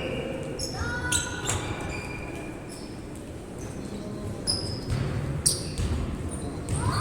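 Indoor basketball game: the ball bouncing on the court, with short, high sneaker squeaks.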